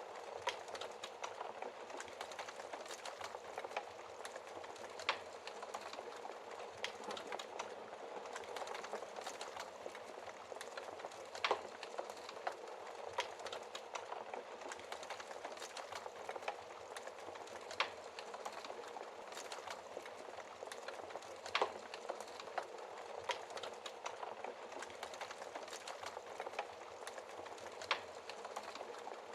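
Wood fire crackling steadily in a fireplace, with a soft hiss of burning and frequent small snaps, broken by a few louder pops of burning wood.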